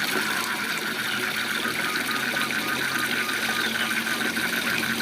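Steady rush of a waterfall, with a frog calling in a quick, even series of short notes, about three a second.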